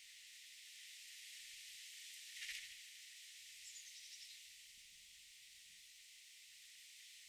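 Faint, steady high hiss of outdoor garden ambience. A short sharp sound comes about two and a half seconds in, and a faint, quick bird call falls in pitch about a second later.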